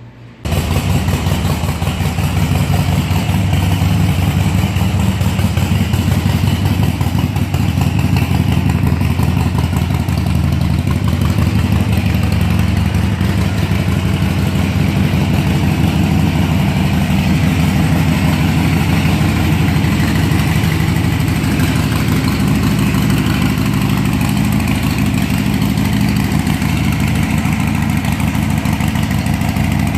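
Harley-Davidson Sportster 1200's air-cooled Evolution V-twin idling steadily through Python aftermarket exhaust, coming in abruptly about half a second in.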